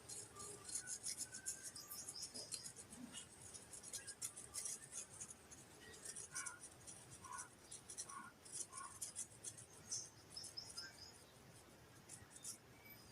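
Faint, quick scratching and scraping strokes as a coating is spread thickly over a cut paper shape by hand, with a few short squeaks in the middle.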